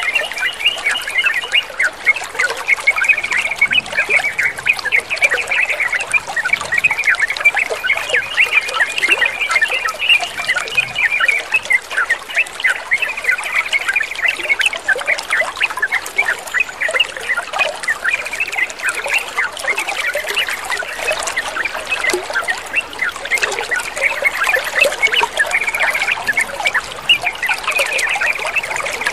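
Water trickling and splashing without pause, under dense, busy chirping and chattering of yellow-vented bulbuls.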